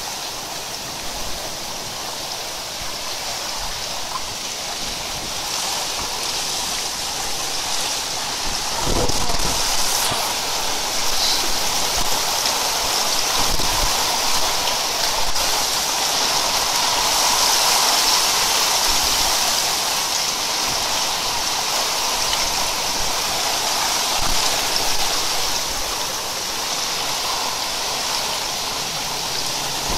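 Torrential downpour: a dense, steady roar of heavy rain with water rushing and pouring, growing louder about a third of the way in.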